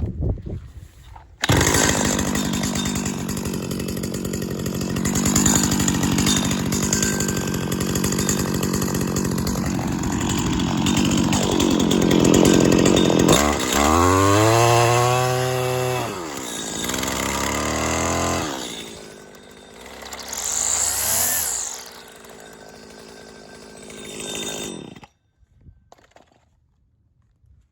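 Stihl FS80R string trimmer's 25 cc two-stroke engine warm-started with the pull cord, catching about a second and a half in and running at a steady high speed. It is revved up and back down twice, settles lower, and cuts off suddenly near the end.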